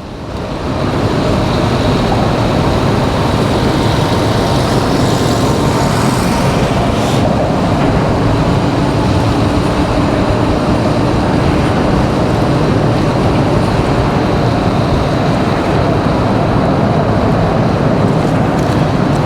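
Steady, loud rush of wind and tyre noise from riding a Zooz Ultralight 1100 electric bike at about 29 mph.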